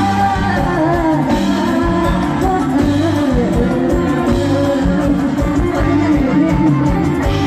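Live band music with a singer and electric guitar over a steady bass beat.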